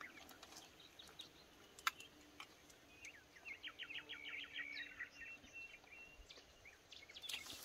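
Faint bird song in quiet open-air background: a quick run of short chirps about three seconds in, lasting a few seconds, with a single click shortly before.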